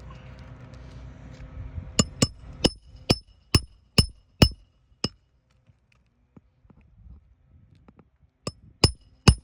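Hammer blows on metal, each ringing briefly. Eight strikes come at about two a second, then after a pause three more near the end.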